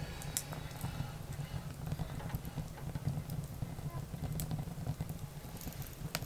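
Wood fire burning, crackling with a few sharp pops over a steady low rumble.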